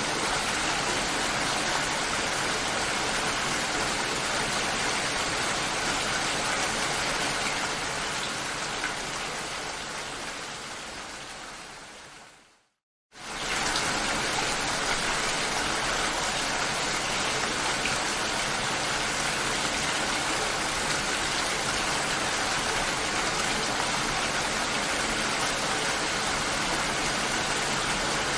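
Steady rainfall hiss with raindrops tapping. Near the middle it fades away over several seconds to a moment of silence, then cuts straight back in at full level, like the seam between two looped recordings.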